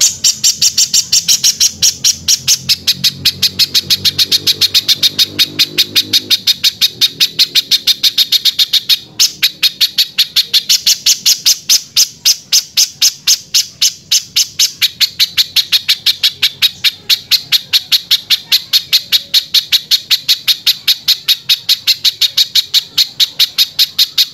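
Spiderhunter (pijantung) calling a rapid, harsh series of short sharp notes at about five a second, kept up almost without pause.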